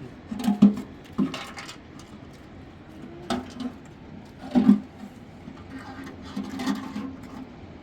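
A series of irregular knocks and clattering scrapes, about six in all, the loudest about half a second in and again about four and a half seconds in.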